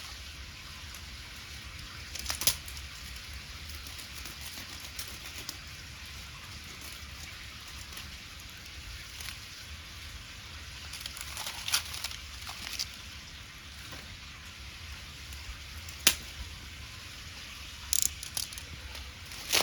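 Wood bonfire crackling: a steady hiss with a few sharp, isolated pops.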